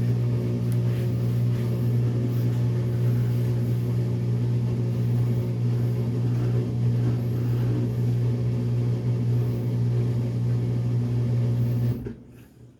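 Washing machine running its drain-and-spin cycle, a steady loud motor hum with a low droning tone. The hum cuts off sharply near the end.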